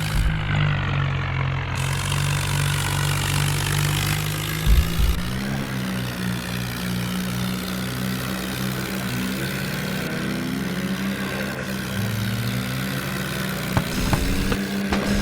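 Heavy diesel engine running steadily under load, its pitch shifting a little about five seconds in and again near twelve seconds, with a sharp knock about five seconds in and a few more near the end.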